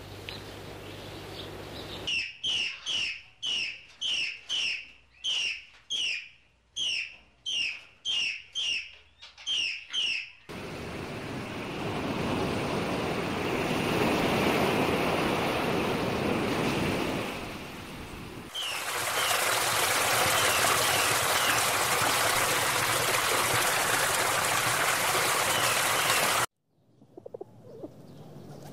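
A bird's short, clear chirp repeated about a dozen times in a steady rhythm. Then a loud, steady rushing like surf on a beach, with a few faint bird chirps over it, which cuts off abruptly near the end.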